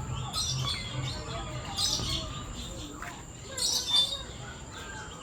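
Captive birds in an aviary chirping and calling, in several clusters of high chirps with fainter calls between.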